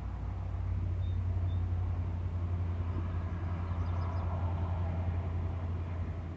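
Steady low rumble of traffic on a nearby freeway, with two faint high chirps about a second in.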